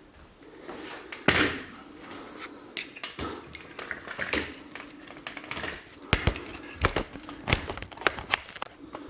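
Amp stand being set up and handled: a string of irregular knocks and clicks, one loud knock about a second in and a quicker run of sharp clicks in the second half.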